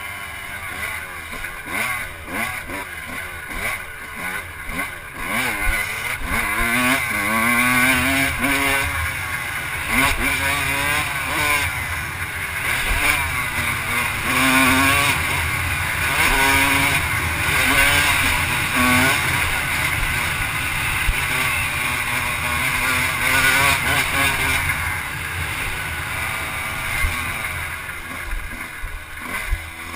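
Off-road vehicle engine riding a dirt track, its pitch rising and falling over and over as the throttle opens and closes and the gears change.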